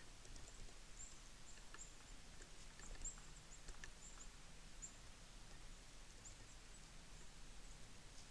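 Faint, high, short chirps from a flock of small birds, scattered irregularly several times a second, with a few soft ticks.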